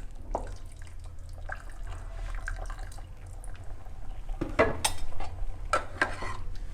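Utensil knocking and scraping in a cooking pot of pork gravy: small scattered clicks, then a few sharper knocks a little past the middle, over a low steady hum.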